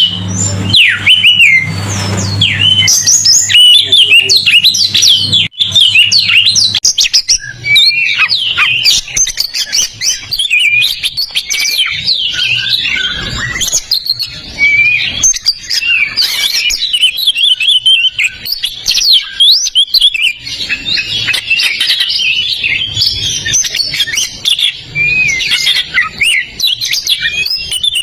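Oriental magpie-robin (kacer) singing without a break: a fast, varied run of loud whistles and chirps.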